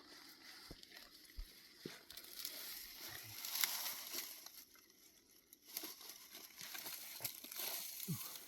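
Faint rustling and crinkling with scattered small clicks.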